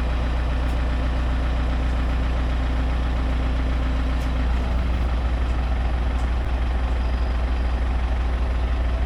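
Tractor engine idling steadily while it holds a lifted fuel tank, a continuous low hum whose tone shifts slightly about halfway through.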